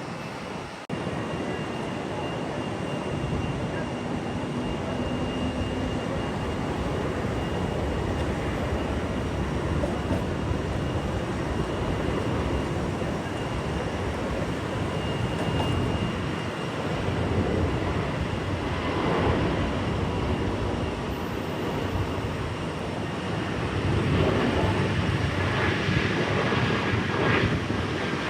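Jet airliner engine noise: a steady, broad rush with a deep rumble that grows louder near the end as the aircraft passes.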